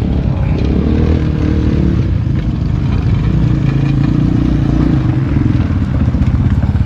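250 cc dirt bike engine held at low, fairly steady revs during a slow wheelie, its pitch rising and easing a little as the throttle is worked against the rear brake.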